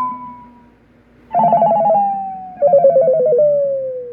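Impersonation of a dying telephone: trilling two-tone rings, the last note from before fading out at the start, then two more rings about a second in and near three seconds in, each lower than the one before. The last ring sinks into a long falling glide.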